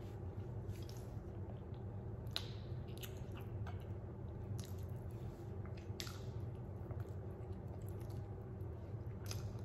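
A person chewing crispy fried chicken close to the microphone, with irregular wet mouth clicks and smacks over a steady low hum.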